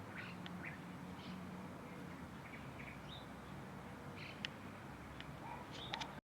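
Small birds giving short, scattered chirps and calls over a steady low background hum; the sound cuts off abruptly near the end.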